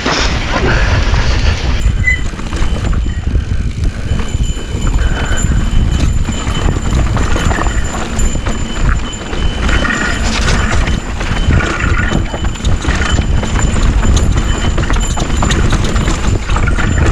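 Mountain bike rattling and clattering as it rolls over a rocky trail, with rapid irregular knocks from the tyres, chain and frame over a steady rumble of wind and terrain noise on the helmet- or bike-mounted camera.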